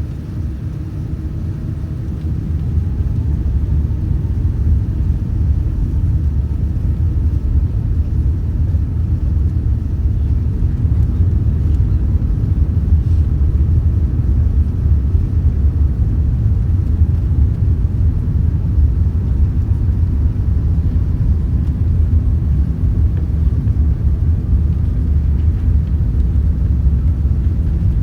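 Inside the cabin of an Airbus A380 during takeoff: a deep, steady rumble of the engines and rushing air, building over the first few seconds and then holding loud, with a faint whine over it.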